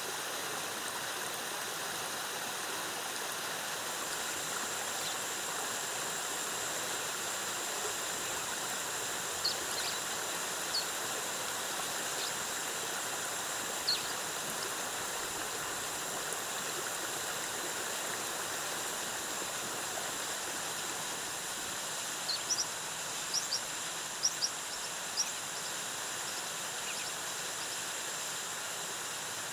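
Steady rushing of a jungle waterfall, with a few short high bird chirps around ten seconds in and a quick cluster of them about three-quarters of the way through.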